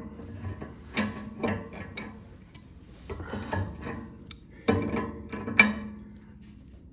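Scattered metallic clicks and knocks from a steam valve being reassembled and worked by hand after a rope packing seal was fitted to stop it leaking.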